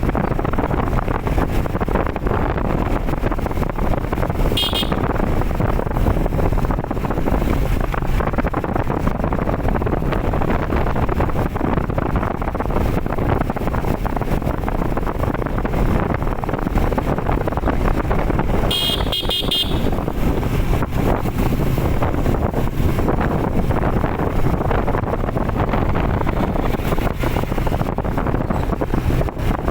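Steady wind and road noise on the microphone of a moving bike, with a short vehicle horn toot about five seconds in and a few quick horn beeps around nineteen seconds in.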